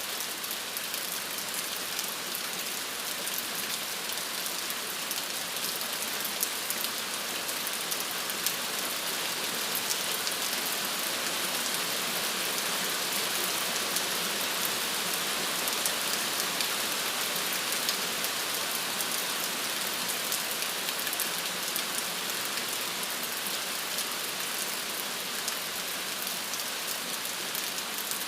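Steady rain falling on a surface, a dense hiss of many small drops ticking, with no thunder.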